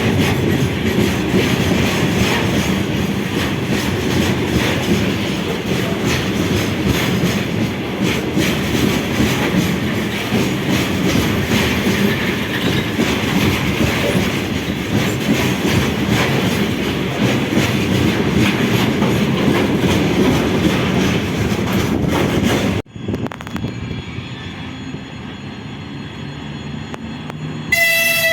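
A train passing close by, wheels rolling loudly over the rails. About three-quarters of the way through it cuts off abruptly to a quieter background, and near the end a train horn sounds briefly.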